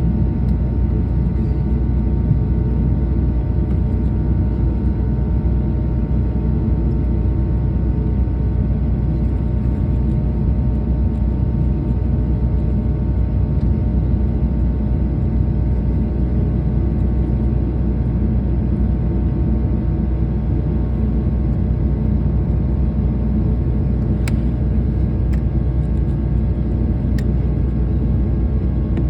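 Steady cabin rumble of a jet airliner in flight, with faint steady engine whine tones over it. A few faint ticks come near the end.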